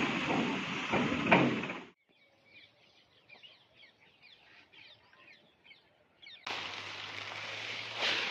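Small birds chirping faintly, between two louder stretches of steady rushing noise with a few knocks. The noise stops abruptly about two seconds in and starts again abruptly near the end.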